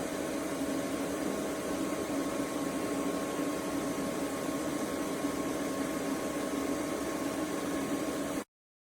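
Steady machine hum, like a fan or small motor running, with a few steady tones over a noisy hiss; it cuts off abruptly near the end.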